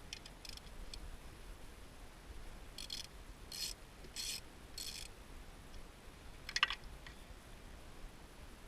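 Short rasping strokes of a hand tool working on the engine: four evenly spaced strokes about two-thirds of a second apart, then a single louder one near the end.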